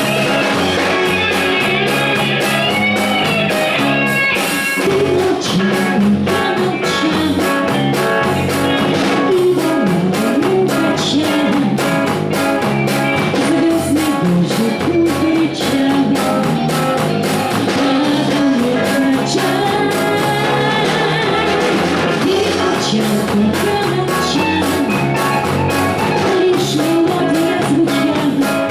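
Live band playing pop-rock music: electric guitar and drum kit under a wavering melodic lead line, with a steady beat.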